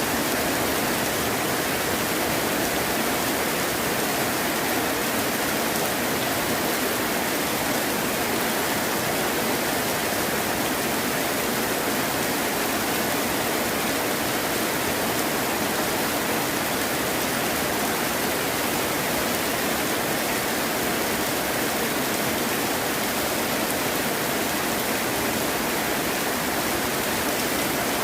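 Heavy rain falling steadily: an even, unbroken wash of noise, with no thunder.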